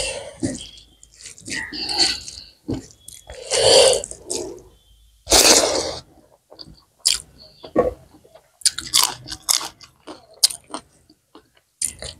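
Close-miked chewing and mouth sounds of a person eating rice and buffalo curry, in irregular bursts and short clicks, along with wet squishing as rice is mixed with dal by hand.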